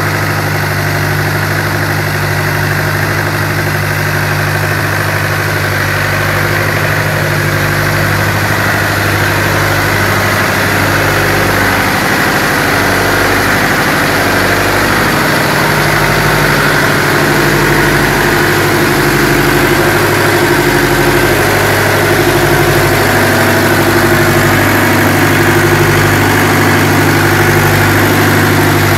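Chinese marine diesel engine running steadily during its break-in run, its loudness creeping up slightly.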